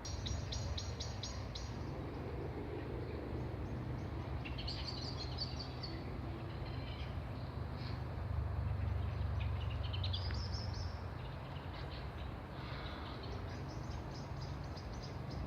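High-pitched chittering animal calls in several bursts of quick ticking notes, one series rising in pitch about ten seconds in, over a steady low rumble that swells in the middle.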